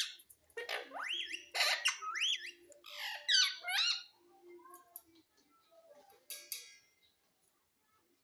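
Pet parrot calling: a run of loud, rising, whistle-like calls in the first four seconds, then softer chatter and a short harsh squawk about six seconds in.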